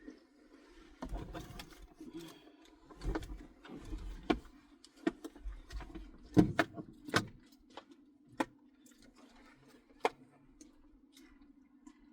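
Handling noises inside a car while seat-cover pieces are unpacked and fitted: a run of irregular clicks, knocks and low thumps with some rustling, busiest in the first eight seconds and loudest about six to seven seconds in, over a faint steady hum.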